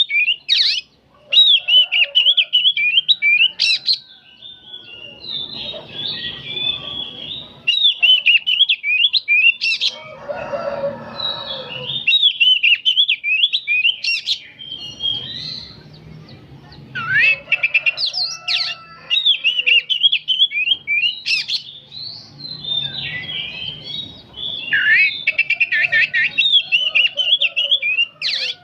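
Oriental magpie-robin (kacer) singing a rapid, chattering song in long phrases, one after another with only short breaks.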